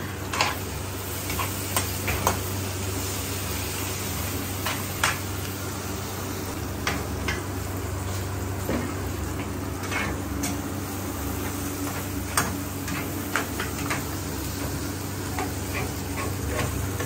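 Onions frying in oil in a pan with a steady sizzle. Now and then a metal spoon clinks and scrapes against the pan and the aluminium pots as the food is stirred.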